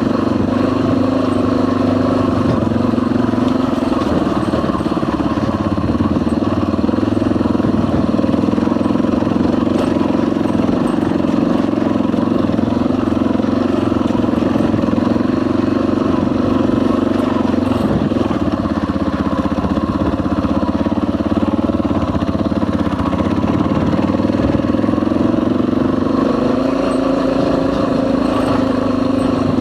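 Dual-sport motorcycle engine running steadily under way, its pitch dipping slightly past the middle and rising again near the end.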